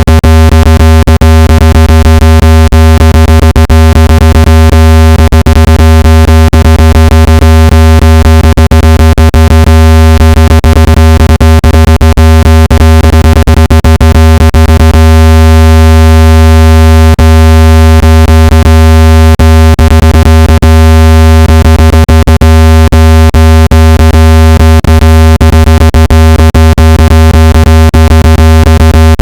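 Loud, steady, low-pitched synthetic buzz with many overtones, crossed throughout by quick irregular clicks. It is a speaker-cleaning tone meant to shake dust and moisture out of a phone's loudspeaker.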